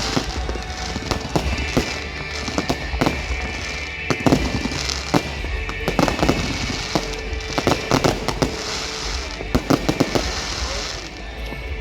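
Fireworks display: many sharp bangs and crackles from exploding fireworks, coming thick and fast, with music playing underneath.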